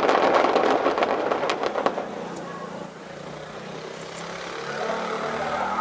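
Fireworks bursting with a loud rush of sharp crackles that dies away after about two seconds.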